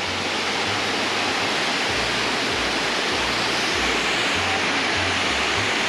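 A waterfall pouring into a pool, a steady, even rush of falling water.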